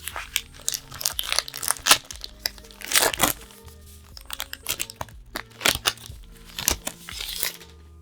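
Trading-card packaging being torn and crinkled by hand in a quick, irregular run of crackles, busiest about three seconds in and again near the end, over soft background music.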